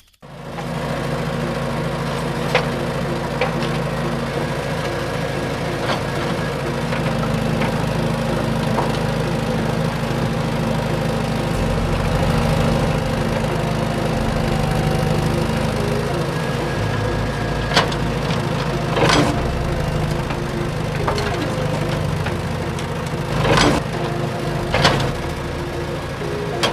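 A small engine running steadily, with a few sharp knocks or clicks here and there.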